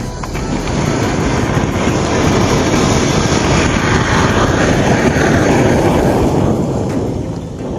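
Firework rocket burning with a loud, grainy rushing hiss that swells in quickly, holds for about seven seconds and dies away near the end.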